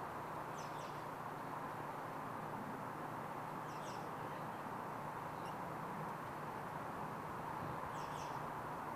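Steady outdoor background hiss with a few short bird chirps, about four brief calls spread through.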